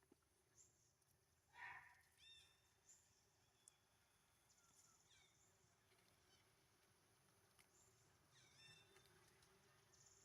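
Faint, short, high-pitched animal calls that fall in pitch, repeated every few seconds, with one louder, lower call about one and a half seconds in.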